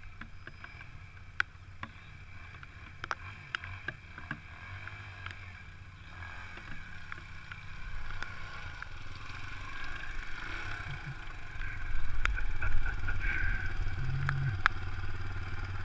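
Enduro motorcycle engine running at low revs over rough ground, with scattered knocks and clatter, growing louder from about six seconds in and loudest around twelve seconds.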